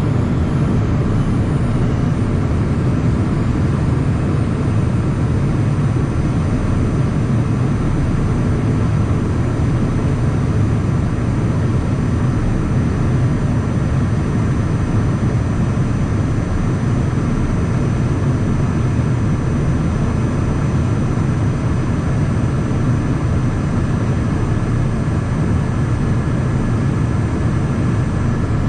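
Cabin noise inside a Cessna Citation Mustang business jet: a steady rush of airflow and engine drone with a faint high, steady whine above it, unchanging throughout.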